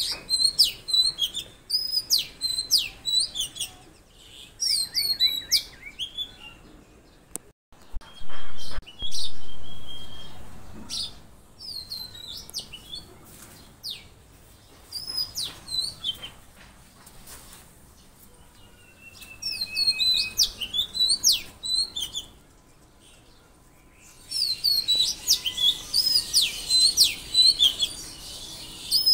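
Songbirds chirping in bursts of quick, high whistled notes, with quieter pauses between the bursts. A louder sudden sound breaks in about eight to nine seconds in.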